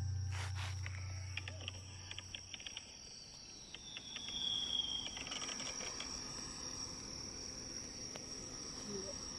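Crickets trilling steadily, with scattered crackles from fireworks in the first half, while a low rumble dies away in the first couple of seconds.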